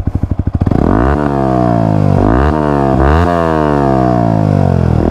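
Yamaha R15 V3's 155 cc single-cylinder engine through a replica aftermarket exhaust, its outer dB killer removed and a honeycomb dB killer inside. It idles, then is revved three times, the pitch rising quickly and falling back after each blip.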